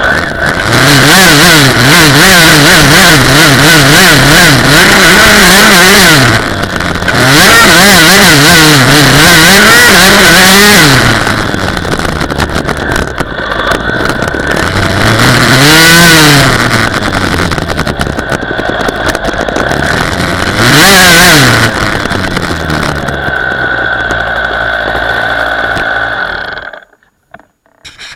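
Dirt bike engine running loud, its pitch wavering quickly up and down with the throttle, with two longer revs that rise and fall later on. The sound cuts off abruptly shortly before the end.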